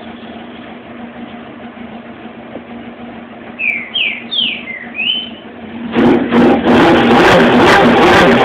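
Honda CBR900 motorcycle's four-cylinder engine running at a steady low idle, then revved hard about six seconds in, becoming much louder. A few short rising chirps are heard around the middle.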